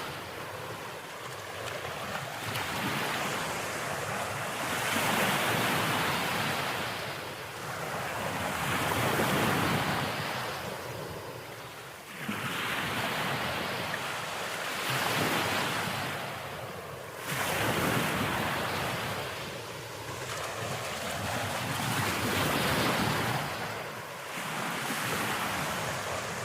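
Ocean waves washing in, the surf swelling and fading every few seconds.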